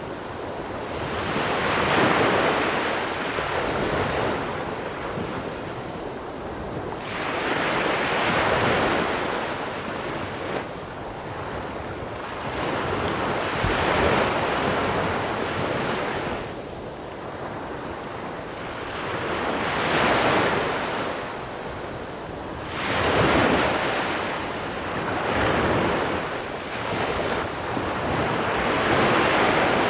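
Sea waves breaking on a small-pebble beach, each one swelling into a rushing wash and falling back, about seven times, with a wind rumble underneath.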